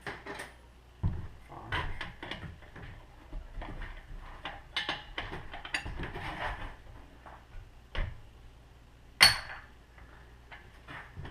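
Hand tools clinking and knocking on the metal of an air compressor's cylinder head as it is unbolted, with one loud sharp crack about nine seconds in as the cylinder head breaks in half.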